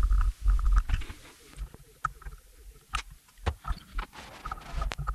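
Hand tools knocking and clinking against a motorcycle brake caliper as it is worked on, a string of irregular metal clicks and taps over heavy low thuds and handling bumps, loudest in the first second.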